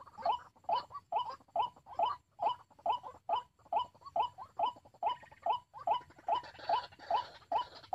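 White-breasted waterhen call: a short, pitched note repeated monotonously about twice a second in an even, unbroken rhythm.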